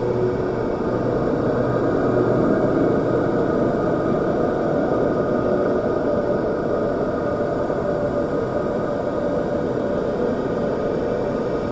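Steady mechanical whirring noise with a faint hum, unchanging throughout, with no distinct knocks or events.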